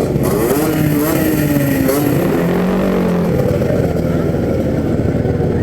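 Several motorcycle engines running and revving as bikes ride by, their pitch rising and falling over a steady low rumble.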